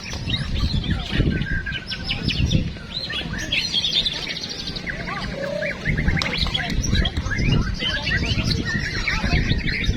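Several caged white-rumped shamas (murai batu) singing at once in competition, a dense tangle of rapid whistles and chirps over a low rumble of background noise.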